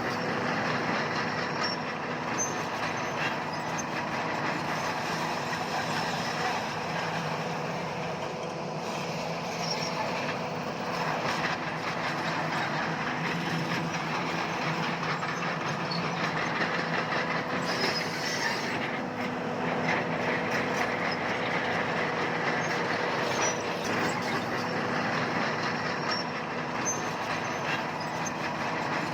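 Bulldozer working: its diesel engine runs steadily under a continuous metallic clatter of its tracks.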